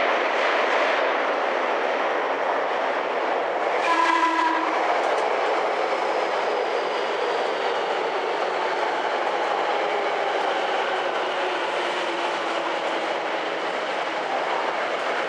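Tokyo Metro 10000 series train running into an underground station: steady rumble of wheels on rail, with one short horn blast about four seconds in. A faint whine slowly falls in pitch as the train brakes to a stop at the platform.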